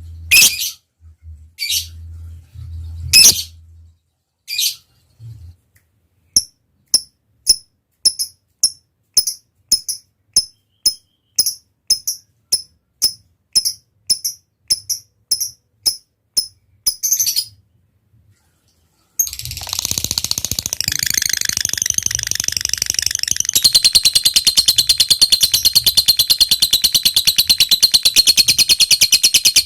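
Lovebird singing: a few sharp calls, then a run of short clicky ticking chirps about two a second ('ngetik'). After a brief pause it breaks into a long, unbroken rapid chattering trill ('ngekek panjang') that grows louder partway through.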